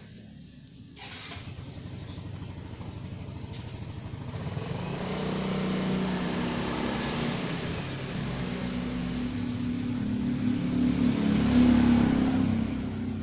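A motor vehicle's engine growing louder over several seconds, loudest near the end, then easing off as it passes.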